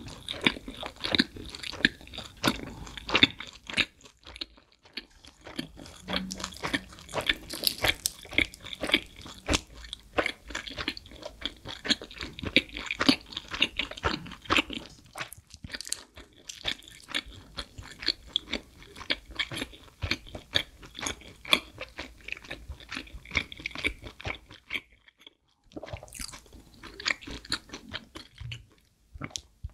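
Close-miked chewing of a mouthful of pizza, a dense run of crunches and quick mouth clicks. It pauses briefly about 25 seconds in, then resumes.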